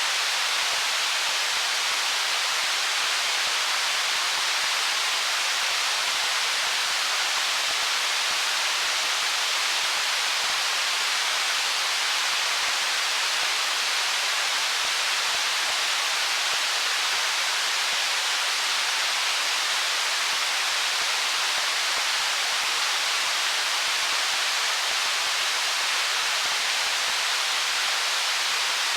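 Water of a stream flowing over rocks, a steady, unbroken hiss-like rush with little bass.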